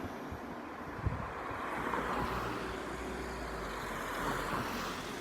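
Diesel passenger train's engine running as it starts to pull away from the station, a steady low hum that grows a little louder about two seconds in, with wind on the microphone.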